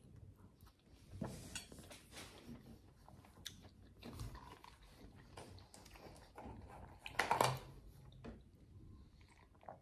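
Quiet chewing and mouth sounds of someone eating a creamy dessert, with small scattered clicks. About seven seconds in comes a brief, louder rush of noise as a plastic soft-drink bottle is handled and raised to drink.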